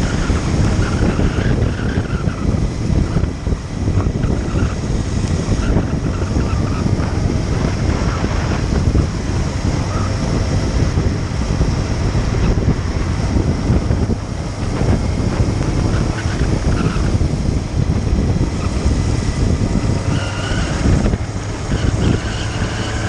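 Motorcycle riding at speed: heavy wind noise buffeting the microphone over the engine's running, with a faint whine that rises and falls near the start and again near the end.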